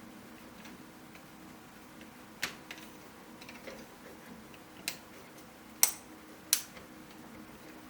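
3D-printed plastic puzzle pieces clicking as they are handled and snapped together by hand: a few scattered sharp clicks, the two loudest close together in the second half, over a faint steady hum.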